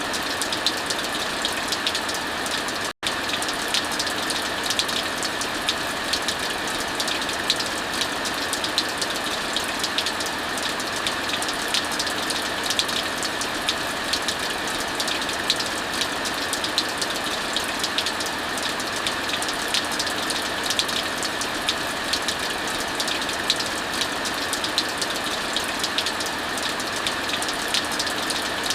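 Steady heavy rain mixed with a fireplace crackling: a dense, even hiss with frequent small sharp pops and snaps. The sound drops out for a split second about three seconds in.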